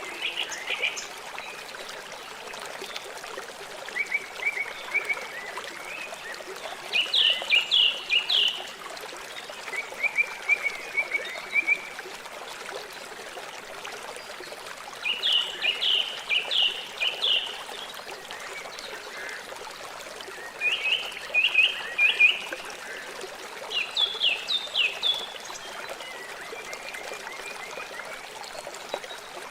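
River water flowing steadily, with a bird calling over it in short phrases of quick, high notes every few seconds; the bird phrases are the loudest sounds.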